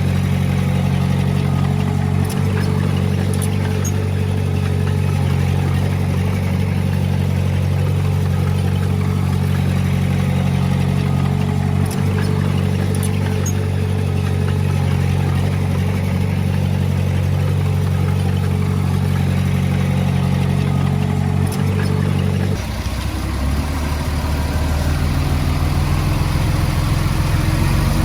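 Heavy-equipment diesel engine running steadily at a constant speed; a little over three-quarters of the way through it changes abruptly to a lower, rougher engine note.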